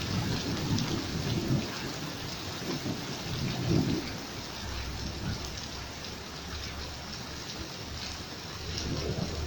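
Steady rain falling hard, with low thunder rumbling through it: swells in the first second or so, again about four seconds in, and near the end.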